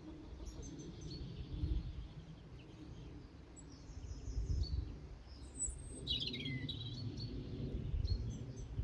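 Small garden songbirds chirping and calling in short high notes scattered through, the loudest a quick falling call about six seconds in, over a steady low rumble of background noise.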